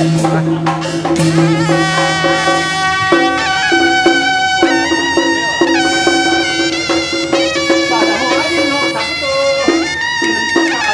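Traditional folk music: sharp percussion strikes for about the first second, then a loud wind instrument playing a melody in long held notes over a steady low drone.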